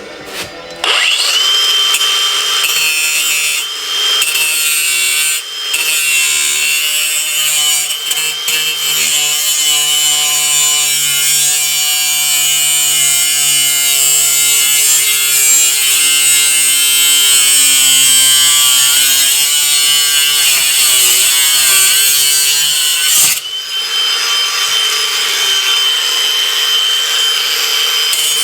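Ryobi 18V brushless angle grinder with a cut-off wheel cutting through metal: a loud, steady hiss with a high whine. It starts about a second in, eases off briefly a few times, and dips once about three-quarters of the way through.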